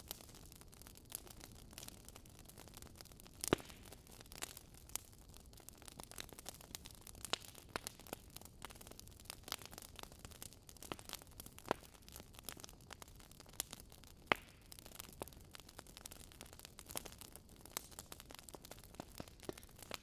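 Faint crackling of a wood fire: irregular sharp pops and snaps over a soft steady hiss.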